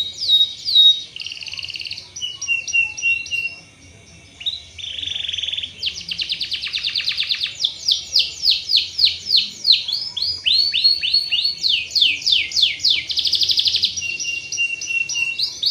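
Domestic canary singing a long, unbroken, high-pitched song. It is made of fast trills of rapidly repeated down-sweeping notes, alternating with short buzzy rolls and runs of steady repeated notes.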